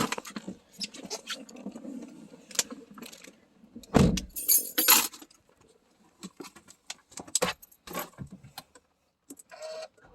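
Car keys jangling and clicking as they are handled, with one heavy thump about four seconds in, typical of a car door shutting.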